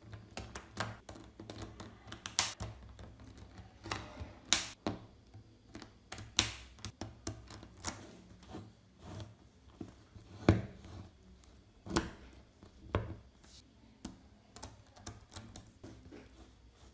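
Small magnetic steel balls clicking and snapping together as they are picked up and set in place, an irregular run of sharp clicks with a handful of louder snaps.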